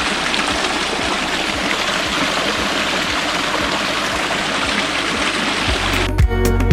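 Steady rushing of a stream or small waterfall. Music with a heavy bass cuts in near the end.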